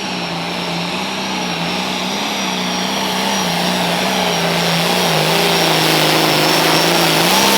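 Turbocharged diesel pulling tractor's engine running hard under load, with a steady high turbo whine over it. The engine's pitch sags and picks back up a few times as it grows steadily louder.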